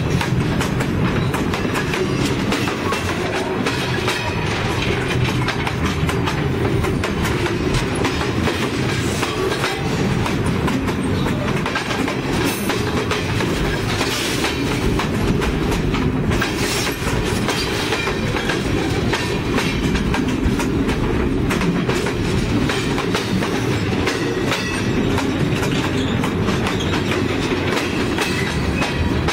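Freight train cars rolling directly over a microphone set between the rails: a steady, loud low rumble of steel wheels on the rails, with constant clacking as the wheel trucks pass overhead.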